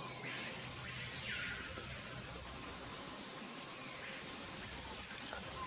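White bellbird calls heard faintly, two arching notes in the first second and a half, over a steady high insect drone.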